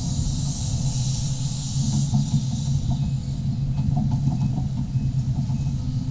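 Sumitomo SH350-HD-5 excavator's diesel engine running steadily under digging load, with a high hiss over the first three seconds and a few faint knocks in the middle.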